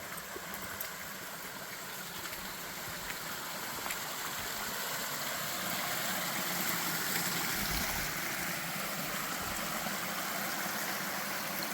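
Creek water flowing in a steady rush, growing a little louder about halfway through.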